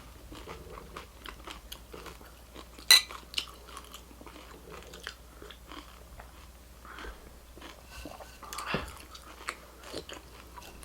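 Close-up chewing of crunchy food: a run of crisp crackles and crunches, with a loud crunch about three seconds in and another cluster of crunches near the end.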